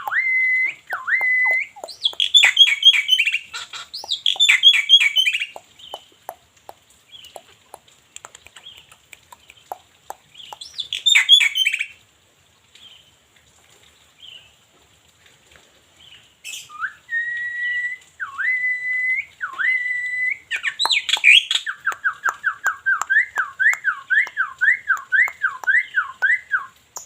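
Black-winged myna (jalak putih) singing: clear whistled notes that drop sharply in pitch, broken by harsh chattering bursts. There is a pause of a few seconds in the middle, and near the end comes a fast run of rising and falling whistles.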